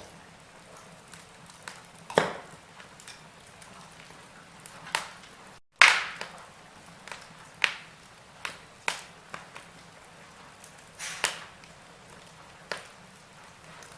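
Wood fire crackling: irregular sharp snaps and pops, about one or two a second, over a soft hiss. The sound cuts out for an instant a little before the middle, then comes back with the loudest pop.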